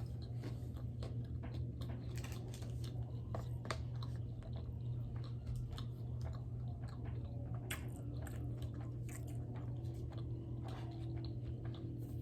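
Close-miked chewing and biting of sushi rolls, with crunchy bites and wet mouth clicks scattered throughout, over a steady low hum.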